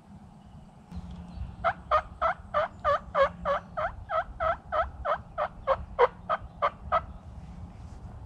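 Turkey yelping: a run of about twenty evenly spaced yelps, roughly four a second, lasting about five seconds.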